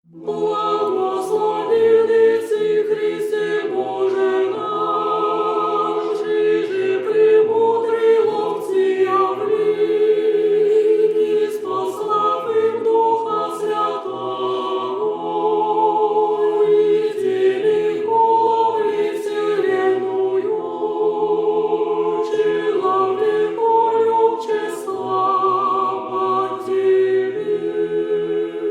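Orthodox church choir singing a cappella: several voices holding slow, sustained chords that change every second or two, fading out at the end.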